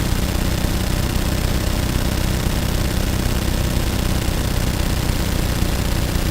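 An engine running steadily, with a fast, even low-pitched pulse and no change in speed.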